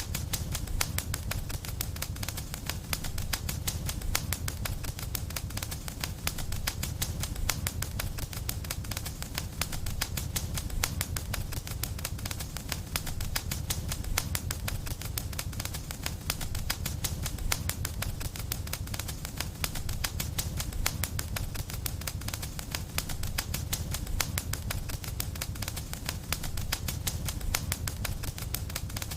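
Fireplace fire crackling steadily: a dense, unbroken run of rapid small crackles and pops over a low, even rumble.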